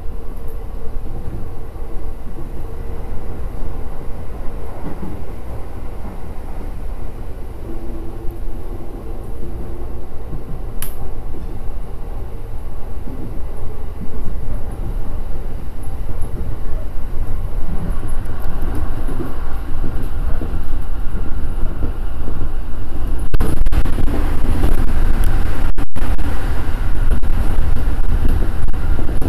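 Electric commuter train running on the rails, heard from inside the driver's cab: a steady low rumble of wheels and running gear. It grows louder in the second half as the train runs into a tunnel.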